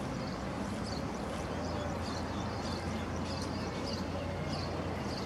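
Small birds chirping repeatedly in short high notes over a steady low outdoor rumble.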